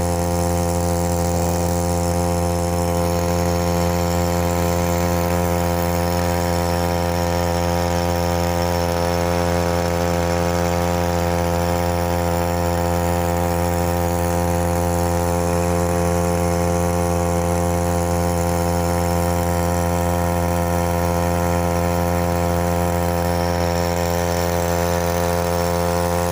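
Matsumoto MOB-830 3 hp air-cooled two-stroke outboard motor running steadily at an even pitch, pushing an inflatable boat.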